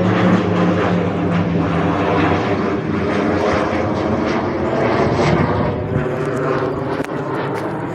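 Propeller aircraft flying past close by, with a loud, steady engine and propeller hum that eases a little after about six seconds.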